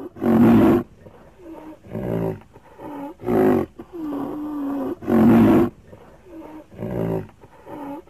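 A series of about seven deep animal calls, each rising and falling in pitch, the loudest about half a second in and about five seconds in.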